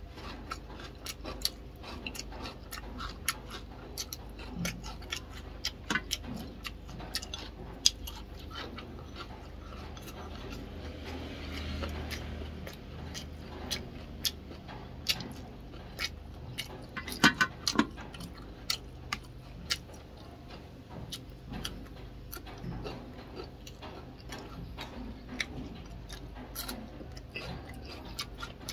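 Close-miked eating sounds: a string of irregular wet clicks and smacks from chewing and lips, with a burst of louder ones a little past halfway.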